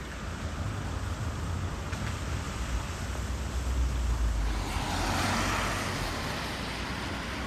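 Road traffic on a wet street, a vehicle passing about five seconds in, its tyre noise swelling and fading.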